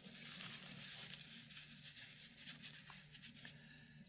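Faint rustling and light rubbing with small ticks: hands handling and wiping the greased parts of a computer power-supply fan.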